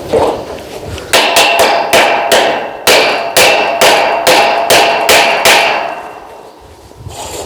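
Hammer striking metal, a fast run of about fifteen blows at roughly three a second, each leaving a metallic ring. The blows start about a second in and stop a little past halfway.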